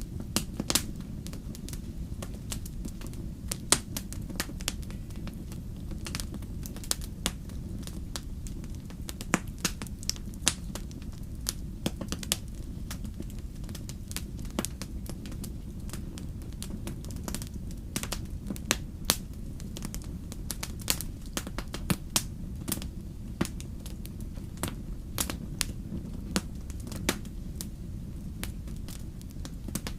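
Wood fire crackling: irregular sharp pops and snaps, a few much louder, over a steady low rumble.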